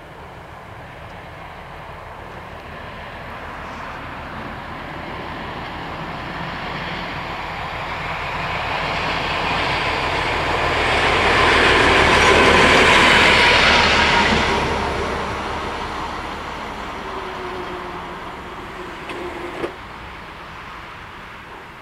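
A train passing over the level crossing, building steadily to its loudest about midway and then fading. Near the end the crossing barriers' motors whine briefly as the booms lift, stopping with a sharp clunk.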